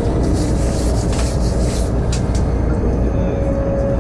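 Electric train running at speed, heard from inside the carriage: a steady low rumble, with a rushing hiss over it for the first couple of seconds.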